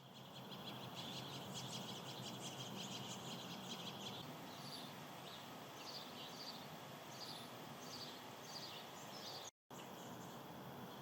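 Faint outdoor ambience with small high animal chirps: a rapid trill for the first few seconds, then short chirps repeating about twice a second. The sound drops out for a moment near the end.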